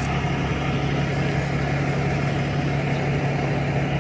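Idling vehicle engine giving a steady, unchanging low hum.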